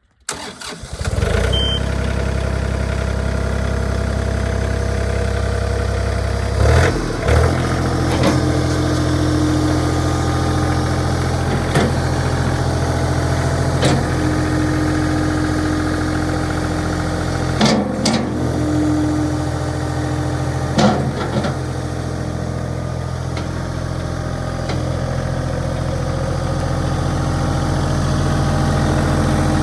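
John Deere 3033R compact utility tractor's three-cylinder diesel engine idling steadily, with a few short knocks or clicks.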